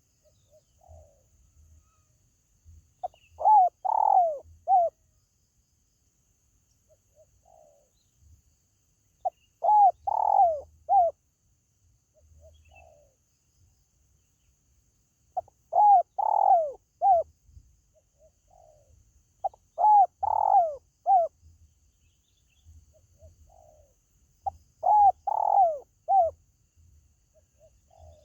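Spotted dove cooing: five loud phrases of three or four falling notes each, one every four to six seconds, with faint short notes between them.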